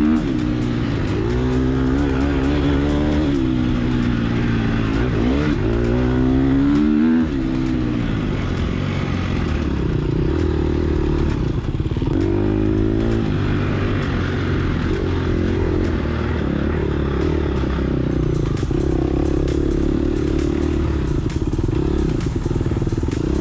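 Dirt bike's single-cylinder four-stroke engine (a Gas Gas EX250F) being ridden hard, its pitch rising and falling as the throttle opens and shuts, with frequent small clicks and clatter.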